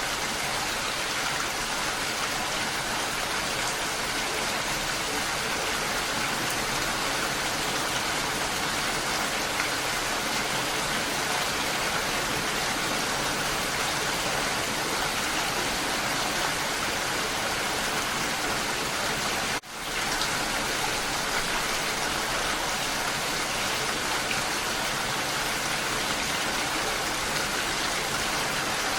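Steady rain falling on rose bushes, an even hiss. About two-thirds of the way through it briefly cuts out and fades straight back in.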